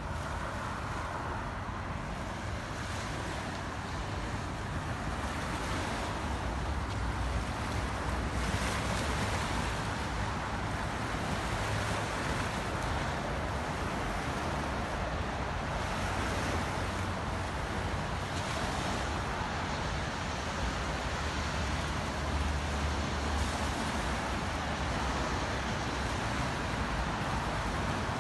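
Steady rain falling, a continuous even hiss, with a low rumble underneath that swells and fades a couple of times.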